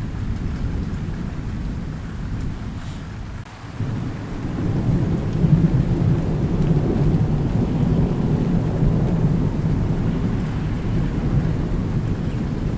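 Thunderstorm: steady rain with rolling thunder. About four seconds in, after a brief lull, a long low roll of thunder builds and keeps rumbling through the rest.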